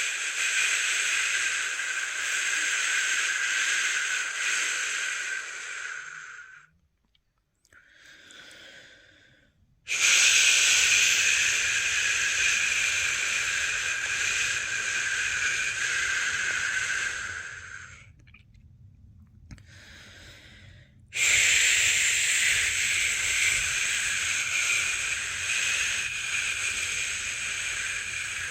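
A person's long, steady 'shhh' shushing, held for several seconds at a time, three times, with a short pause between each and only a faint hiss in the pauses. It is the shushing used to soothe a newborn to sleep.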